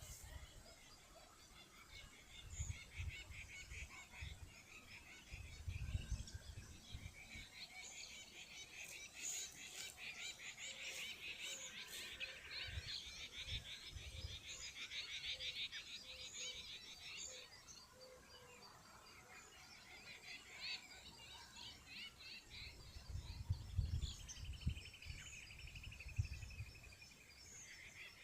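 Small birds chirping and trilling in rapid, repeated high notes, with a falling trill near the end. Low rumbles come and go a few times underneath.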